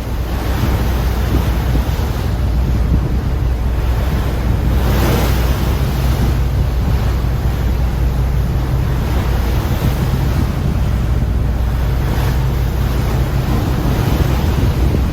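Wind buffeting the microphone on a ferry's open deck, over the steady low drone of the ship's engines and rushing water. Gusts swell briefly about 5 and 12 seconds in.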